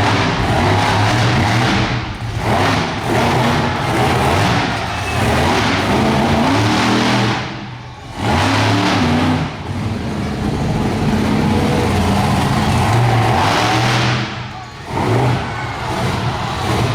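Monster truck engine revving hard, the throttle worked up and down, with two brief lifts off the throttle about eight seconds in and near the end.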